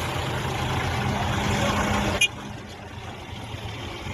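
Diesel tractor engine running steadily. A sharp click comes a little past two seconds in, and after it the engine sound is much quieter.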